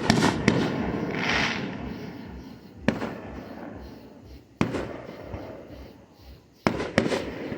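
Fireworks going off: a sharp bang, then a crackling, hissing rush that fades over a few seconds. Single bangs follow about three and four and a half seconds in, and a quick run of bangs comes near the end.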